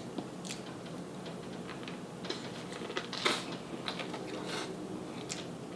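Close-miked mukbang eating sounds: scattered small clicks and crisp crackles from chewing and handling seafood-boil food, with a louder crunchy burst about three seconds in.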